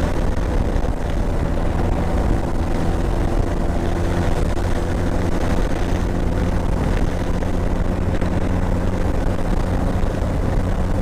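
Motorcycle engine running steadily while riding, an even low hum with rushing road and wind noise over it.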